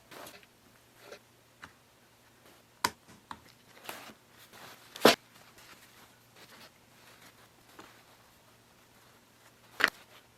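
Quiet handling noises of hand work with epoxy and a small tool: scattered light taps and brief scrapes, the loudest about five seconds in, over a faint steady hum.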